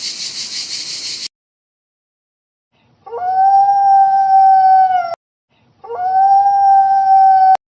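A steady hiss cuts off just over a second in. After a pause, a dog howls twice: two long, steady howls of about two seconds each.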